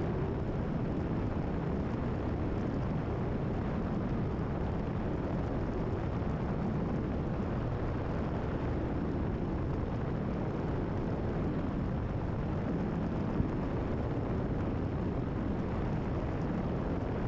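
Steady drone of a Cessna 172RG's piston engine and propeller, heard inside the cabin during a cruise climb at climb power (25 inches manifold pressure, 2,500 rpm). The noise is even and unchanging.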